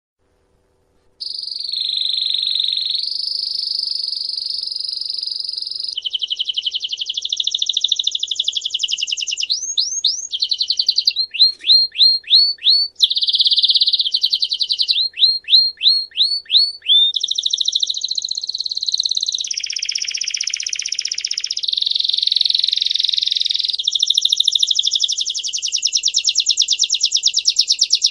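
A songbird singing a long, unbroken song of fast trills and rattling repeated phrases, starting about a second in, with runs of quick downward-sweeping notes around the middle.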